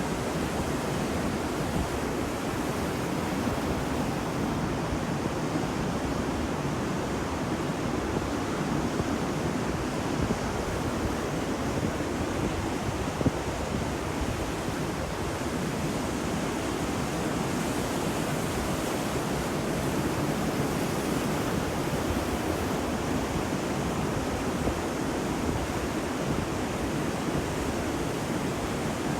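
Steady surf of waves breaking on a beach, an even wash without distinct swells, with a single brief click about halfway through.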